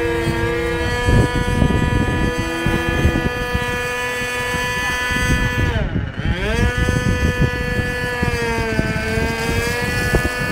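Four-stroke glow engine (ASP FS120AR) of a quarter-scale RC Clipped Wing Cub running steadily in flight. Its pitch drops sharply about six seconds in, comes back up, and sags a little again near the end. Wind buffets the microphone underneath.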